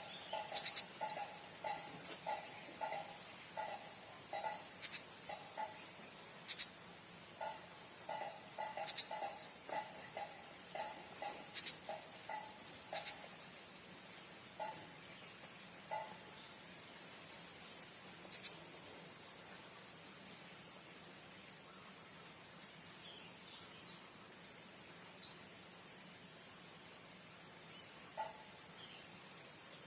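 Steady high-pitched insect trilling throughout, with about seven short, sharp, very high chirps from blue-crowned hanging parrots scattered through the first two-thirds. A lower series of rapid repeated notes runs through the first half, then thins out.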